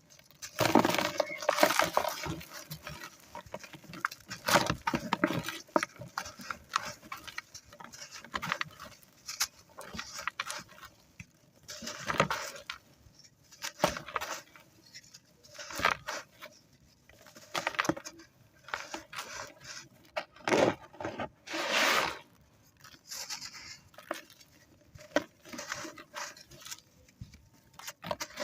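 Dry, crispy coloured sand crumbling and crunching in irregular gritty bursts, some sharp crackles and some longer grainy crumbles about a second long, with short quiet gaps between.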